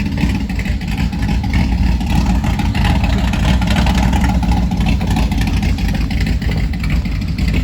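Loud car engine and exhaust running, a car whose exhaust has been made loud on purpose.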